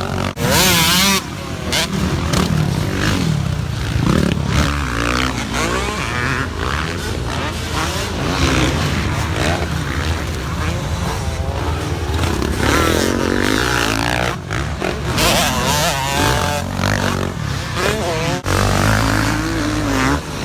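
Motocross dirt bike engines running and revving repeatedly, the pitch rising and falling.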